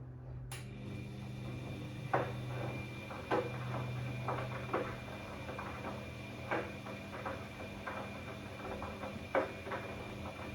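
Bosch Classixx 6 front-loading washing machine in the heating stage of a cottons 90 wash: a click about half a second in, then the drum motor starts with a steady hum and whine while the tumbling wash load knocks and sloshes irregularly.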